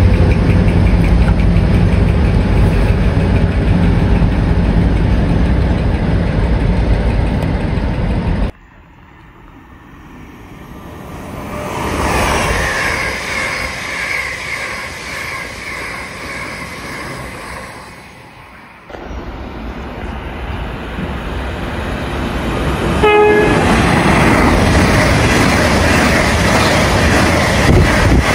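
Colas Rail Class 56 diesel locomotive 56078 running through with a loud, steady engine note. After a cut a train horn sounds, and after another cut an LNER Azuma passes at speed with loud wheel and air noise.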